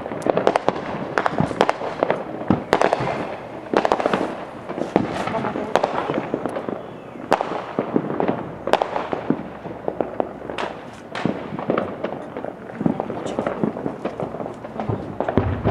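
Fireworks going off: many sharp bangs and pops at irregular intervals, several a second at times.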